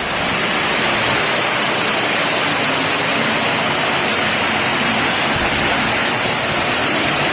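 Heavy downpour: a loud, steady rushing hiss of torrential rain and running water.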